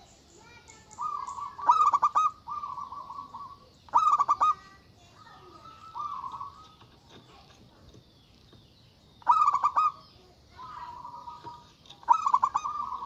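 Zebra dove (perkutut) cooing: repeated song phrases held at one pitch, each opening with a loud burst of rapid staccato notes and running into a longer rolling coo, four bursts with short pauses between. Faint chirps of small birds behind.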